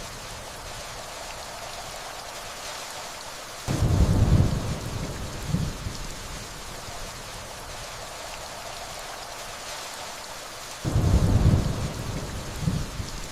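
Steady rainfall with distant thunder rumbling twice, once a few seconds in and again near the end. Each low rumble sets in suddenly, swells for a couple of seconds and fades back into the rain.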